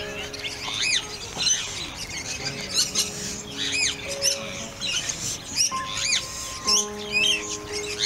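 Birds chirping over and over, short rising-and-falling notes coming one after another, over background music with held chords that change every second or two.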